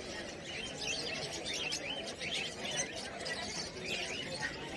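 Many small cage birds chirping and twittering at once, with short overlapping calls, over a low murmur of crowd voices.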